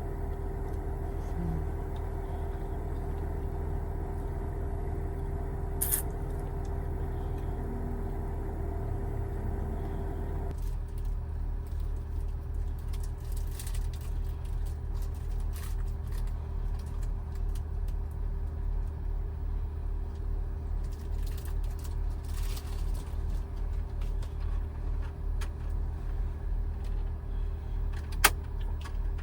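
Toyota HiAce van's engine running steadily with a constant low hum; about ten seconds in the hum changes, taking on a low, evenly pulsing beat. A couple of faint clicks come through over it.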